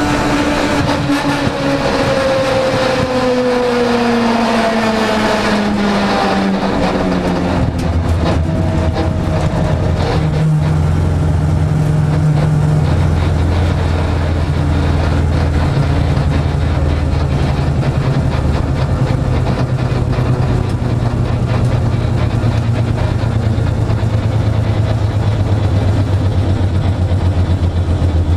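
Mazda RX7's rotary engine heard from inside the cabin, its note falling over the first several seconds as the car slows, then running steadily at low revs for the rest of the time.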